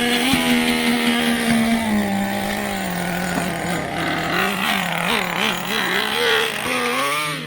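Traxxas T-Maxx RC truck's small two-stroke nitro engine, just started and running with a steady high buzz, then revved up and down in quick throttle blips from about four seconds in. It is being warmed up after a tune of its bottom-end needle.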